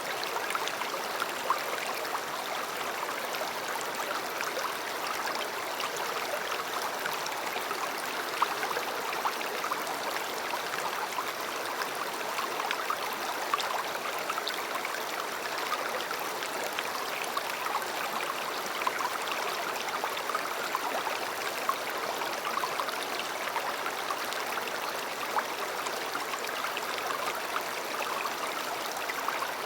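River water flowing and babbling over stones, a steady rushing with small splashes scattered through it.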